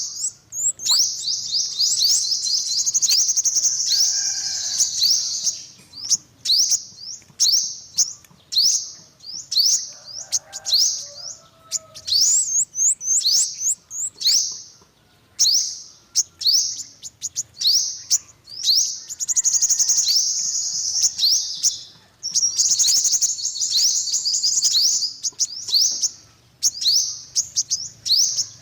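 Yellow-bellied sunbird singing: strings of thin, high chirps, each sliding quickly downward, broken by several fast, dense trills lasting a few seconds each.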